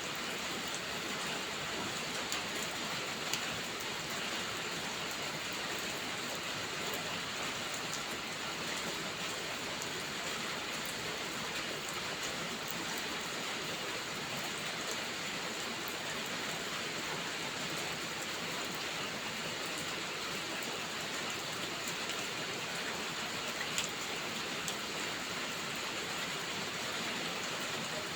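Steady rainfall, an even hiss with scattered sharp ticks of drops landing close by.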